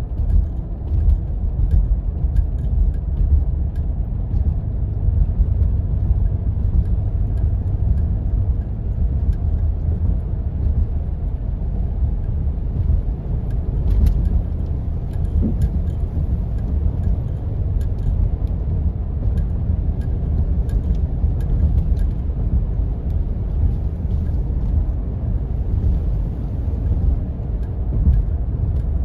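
Jeep driving on snow-covered back roads: a steady low rumble of engine and tyres, with scattered light clicks and ticks throughout.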